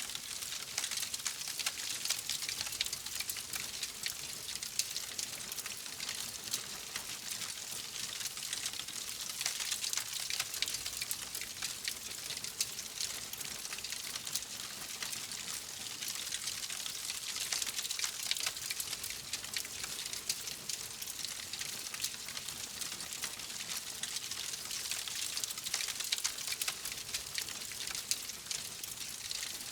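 Wood fire crackling in a fireplace: a steady hiss thick with small, rapid pops and snaps, without letting up.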